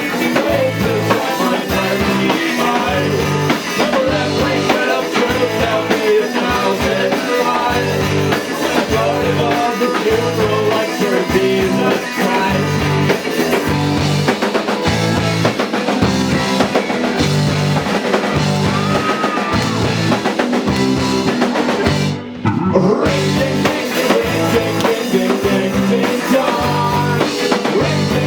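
A rock band playing live, with a drum kit, bass and electric guitars in a steady beat. The band stops for a moment a little after 22 seconds, then comes straight back in.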